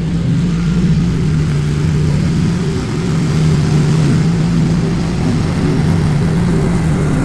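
Lawn mower engine running steadily under load.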